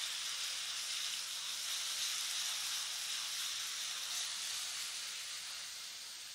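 Garlic and coriander paste sizzling in hot oil in a heavy-bottomed kadhai as it is sautéed and stirred with a wooden spatula. A steady sizzle that eases slightly toward the end.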